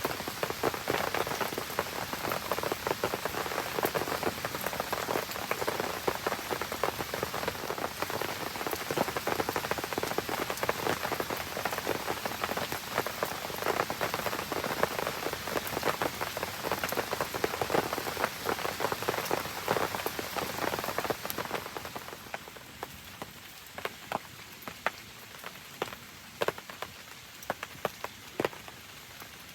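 Steady rain pattering densely on leaves and ground. About twenty-two seconds in it turns noticeably quieter, leaving a softer hiss with scattered separate drops.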